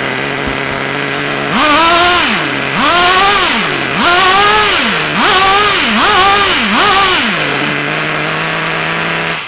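Traxxas T-Maxx's small two-stroke nitro engine running at a fast idle, then revved six times with quick throttle blips, each a rising and falling whine, before settling back to idle. The engine is now running well after the carburettor needle was adjusted.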